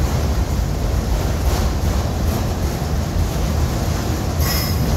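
Freight train of autorack cars rolling past, a steady rumble of wheels on rail joints. A brief high-pitched squeal sounds near the end.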